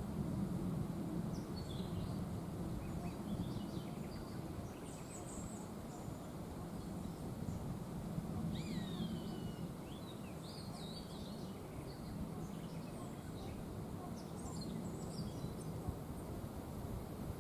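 Wind rushing steadily through cloud-forest trees, with several birds calling over it in short chirps and whistles. One clear falling whistle comes about nine seconds in.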